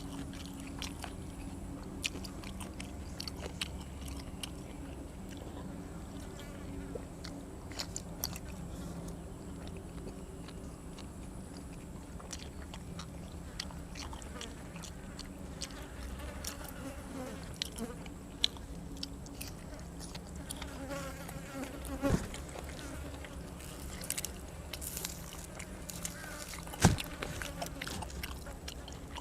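A person chewing and biting grilled cuttlefish and fresh vegetables, with scattered short clicks and crunches and a sharper knock twice near the end, over a steady low buzzing hum.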